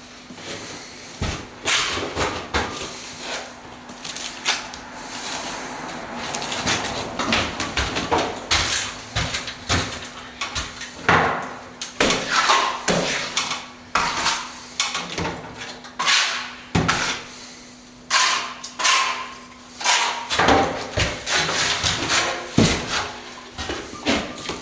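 Plastering tools scraping and clacking irregularly as render is worked onto a wall, with a faint steady hum underneath.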